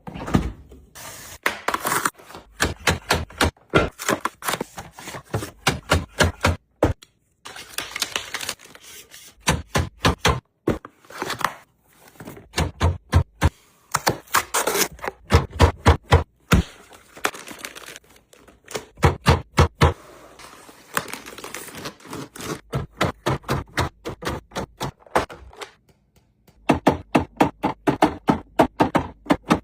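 Quick runs of hard clicks, taps and knocks, several a second, broken by short pauses: containers and packages being set into a refrigerator and knocking against its shelves.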